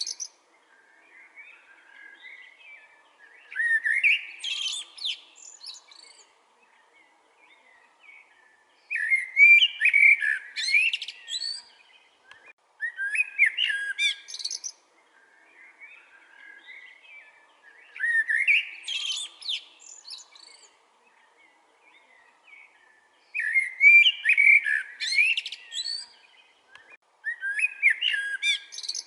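Common blackbird singing: about six fluting song phrases, each around two seconds long and ending in a high squeaky twitter, separated by pauses of a few seconds. Fainter bird chirping fills the gaps between phrases.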